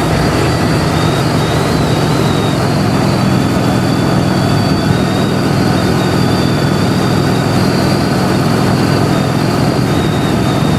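Honda Shadow VLX motorcycle's V-twin engine running steadily while riding, with road noise.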